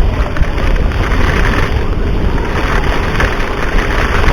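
Wind and road noise rushing over the rider's microphone with a Yamaha NMAX 155 scooter running underneath, at riding speed in the rain.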